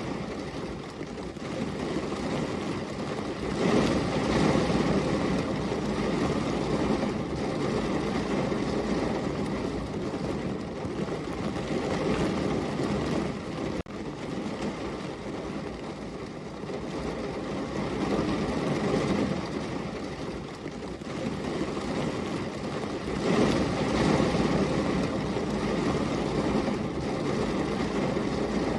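Heavy rain falling, a dense steady rushing hiss that swells and eases every few seconds.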